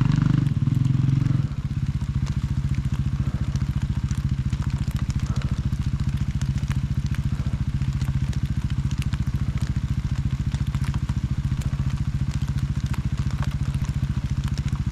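Off-road motorcycle engine running at higher revs for about a second and a half, then dropping back to a steady idle. Light scattered ticks of rain run through it.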